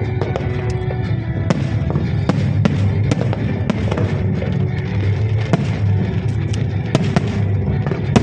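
Fireworks going off in a rapid string of sharp bangs and crackles over loud music.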